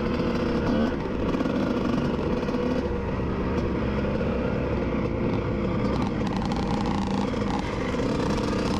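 Two-stroke motocross bike engines running, their pitch rising and falling as they rev.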